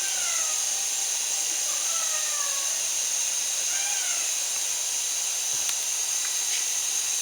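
Syma S107 mini coaxial RC helicopter in flight, its small electric motors and rotors making a steady high whine over a hiss, with a few short gliding changes in pitch.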